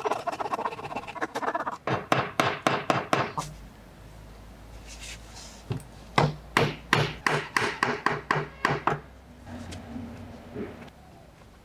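Repeated hammer blows on wood, in two quick runs of about three or four strikes a second, with some rubbing or scraping of wood in between.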